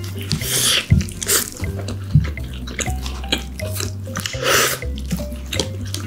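Close-miked eating of a hamburger: a bite into the soft bun, then wet chewing with small mouth clicks, louder about half a second in and again near four and a half seconds. Background music with a low, stepping bass line plays under it.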